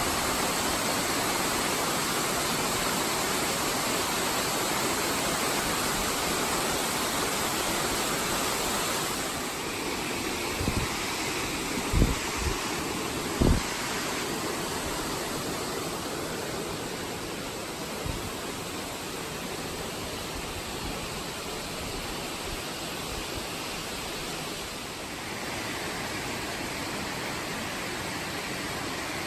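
Steady rush of falling water, with a few dull thumps about halfway through.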